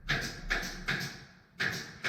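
Repeated sharp knocks of hammering during timber framing work, about two blows a second, unevenly spaced, each with a short fading ring.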